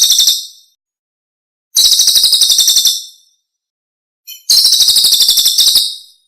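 Songbird call: a fast, high trill of about ten repeated notes a second, in three bursts of about a second each, separated by dead silence. It is a looped masteran recording used to train caged songbirds.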